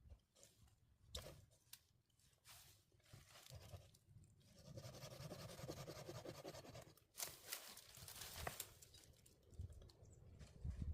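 Faint rasping of a hand saw cutting wood, with two louder scraping strokes about seven and eight and a half seconds in.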